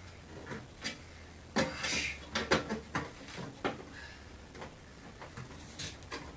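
Hand sheet metal shears snipping through a refrigerator's thin sheet-metal casing: a run of sharp, irregular metallic clicks and crunches, loudest a little over a second in, over a steady low hum.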